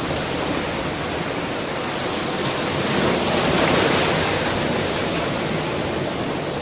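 Ocean surf: a steady wash of waves on a shore, with one wave swelling to a peak about halfway through and then easing off.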